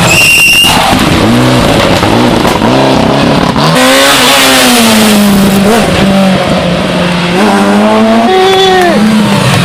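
Rally car engine revving hard, its pitch climbing and dropping again and again with gear changes and lifts. A high steady squeal in the first second stops abruptly, and a rush of tyre noise swells about four seconds in.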